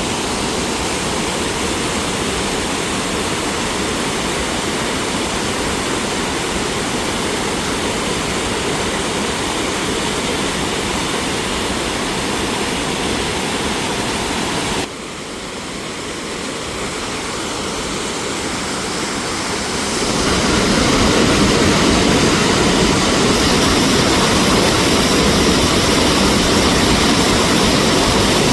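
Steady rush of mountain water pouring over rocks. The sound drops suddenly about halfway through, swells back over a few seconds, then jumps to a louder, heavier rush about two-thirds of the way in.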